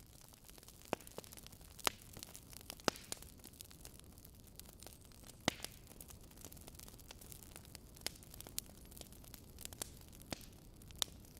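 Wood fire crackling in a fireplace: sharp, irregular pops, about a dozen, over a steady low hiss.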